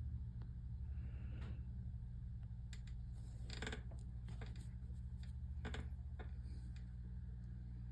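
A few faint clicks and scratches of a bent-tip needle and yarn being drawn through knitted stitches while a sock toe is grafted closed by hand, the clearest about halfway through and again near six seconds. A steady low hum runs underneath.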